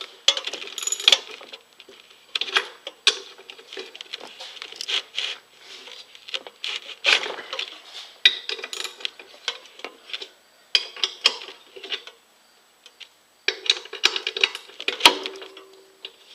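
Irregular metal clinks and rattles of a socket wrench and loose head bolts being worked off a Briggs & Stratton 5 hp engine's cylinder head, pausing briefly about two thirds of the way through.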